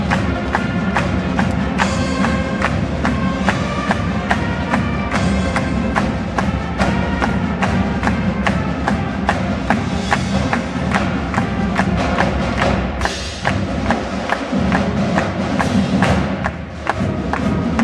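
High school marching band playing: brass and wind chords over a steady, quick drum beat from the percussion section.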